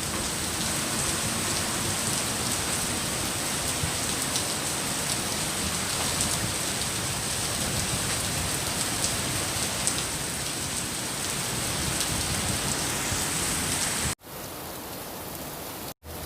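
Heavy rain falling steadily. About 14 seconds in it drops suddenly to a quieter level, with a brief dropout just before the end.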